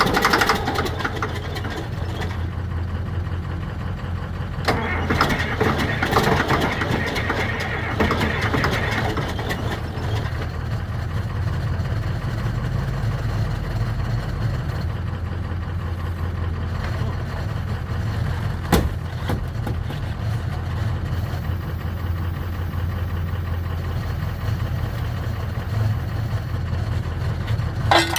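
An engine running steadily at low speed, growing noisier for a few seconds about five seconds in, with one sharp click a little past halfway.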